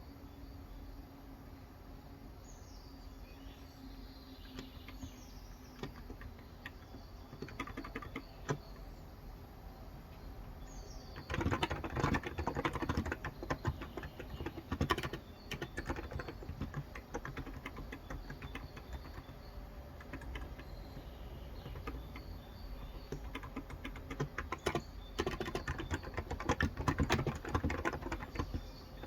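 Typing on a Cox Endeavor electro-capacitive (contactless) 35g tenkeyless keyboard: a few scattered keystrokes, then steady fast typing from about eleven seconds in. Birds chirp outside with short falling calls, plainest before the typing picks up.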